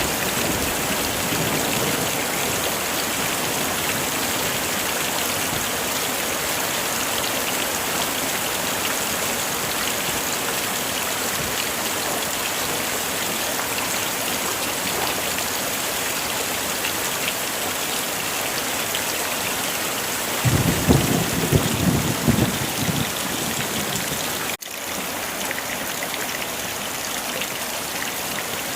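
Heavy rain falling in a steady, even hiss. About 20 seconds in a low rumble of thunder swells for about three seconds. A moment later the sound cuts out briefly, then the rain carries on a little quieter.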